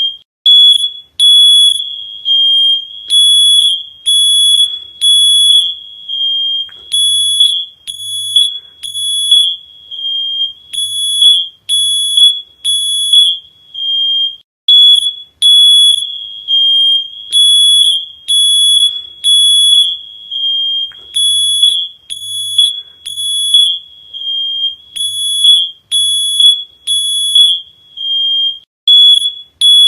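Loud, high-pitched electronic alarm beeping over and over, roughly two beeps a second in uneven runs, some beeps held longer.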